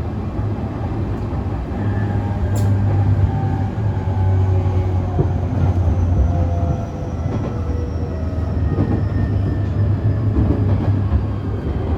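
Running sound inside a JR East E531 series electric train with a Hitachi IGBT-VVVF inverter, its traction motors whining in several tones that slowly fall in pitch as the train slows for the station. There is a steady low hum underneath and a single sharp click a few seconds in.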